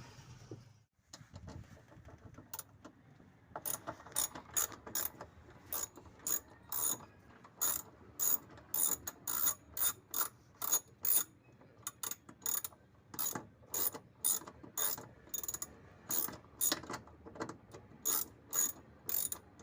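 Socket ratchet wrench clicking as it turns bolts out, with a run of sharp, regular clicks about two a second that starts a couple of seconds in.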